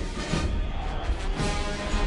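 Military brass band playing a march, with held brass chords over regular bass drum beats.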